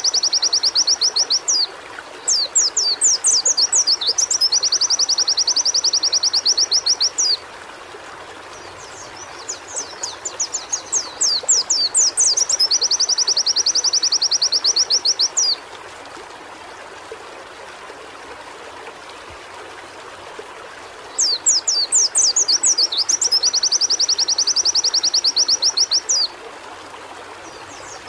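Pleci (white-eye) singing in loud high-pitched bouts: each opens with a few sharp downward-swept notes and runs into a rapid trill of a few seconds, three times in all, with a long pause near the middle. A steady hiss runs beneath.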